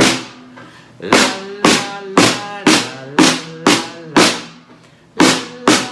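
Snare drum (tarola) beating a steady rhythm of about two strikes a second over a pitched accompaniment. The beat breaks off briefly near the end, then comes back with two more strikes.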